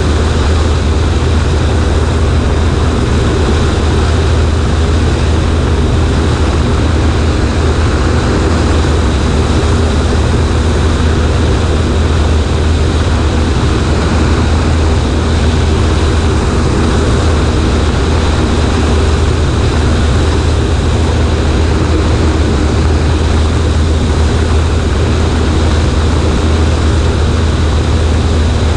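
Cessna 140A's piston engine and propeller running at a steady, unchanging speed, with a strong low drone and a broad rush of air noise over it.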